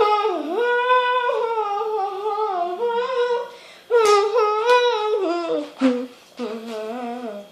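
A voice humming a melody in held, wavering notes, phrase by phrase with short breaks; the tune is a piece inspired by the changing seasons.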